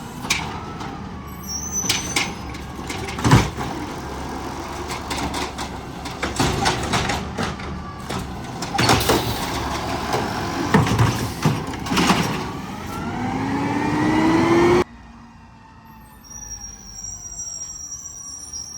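Garbage truck at work: the engine runs under a string of sharp metal clanks and bangs, and a rising whine builds near the end. At about fifteen seconds the sound cuts off suddenly to a quieter street scene with faint high squealing.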